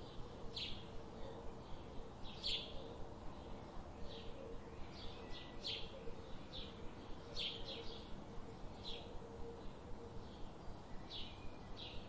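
Birds giving short, sharp chirps at irregular intervals, over a steady low hum and a soft regular pulse of about three beats a second.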